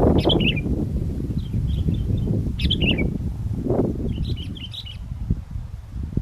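Sooty-headed bulbuls giving short chirpy call phrases in four bouts, over strong wind buffeting the microphone with a gusty low rumble.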